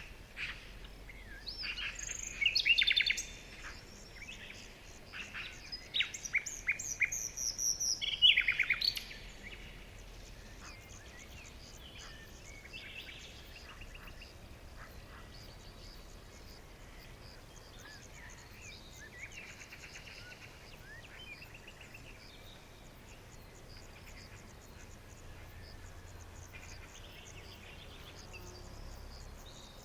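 Birds chirping and calling: loud, separate bursts of song over the first nine seconds or so, then fainter, busier chirping over a soft steady background.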